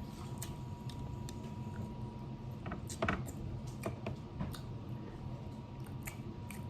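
Crab shells cracking and snapping as crab legs are broken open by hand, a series of irregular clicks with the loudest about three seconds in.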